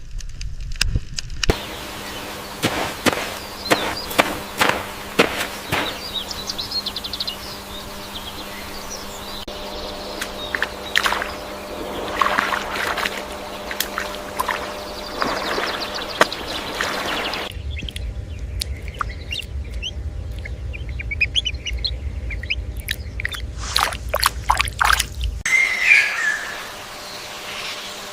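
Bird chirps and calls mixed with sharp clicks and some splashing, the background changing abruptly three times.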